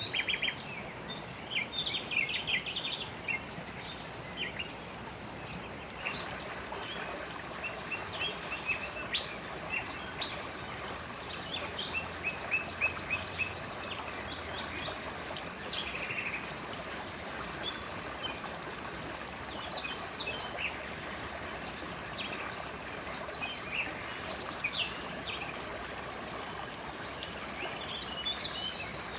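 Several small songbirds chirping and trilling over the steady rush of a flowing river. A thin, high, unbroken note comes in near the end.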